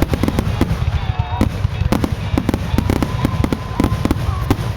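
Fireworks going off in rapid succession: many sharp bangs and crackles, several a second, over a continuous low rumble.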